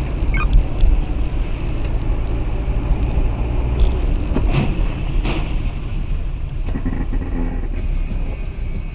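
Car on the road heard through a dashcam: a steady low rumble of engine and road noise, with several short knocks and clicks scattered through the first half.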